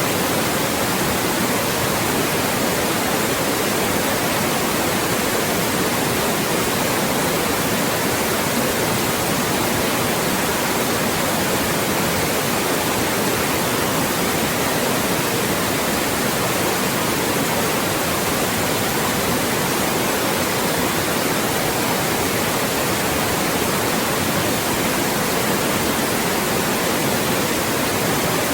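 Loud, steady white noise: an even hiss across the whole range with no change or break, generated as a speech-masking sound.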